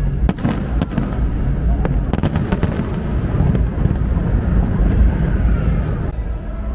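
Aerial fireworks going off: sharp cracks and pops in quick clusters over a continuous low rumble of bursts.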